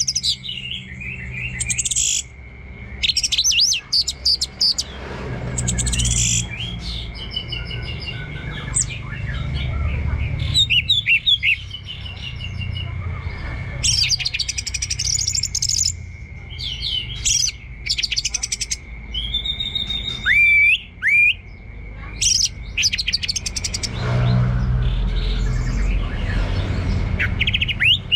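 Orange-headed thrush singing a long run of varied song in bursts: quick chirps, fast rattling trills and a few sweeping whistles, with short pauses between phrases. A steady high tone runs underneath.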